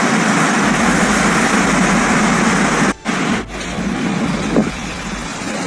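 Steady street noise with vehicle engines running and a rushing hiss, broken by a sudden brief dropout about three seconds in, after which it carries on a little quieter.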